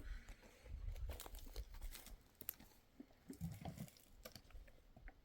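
Faint, scattered light crunches and clicks, with a low rumble at times.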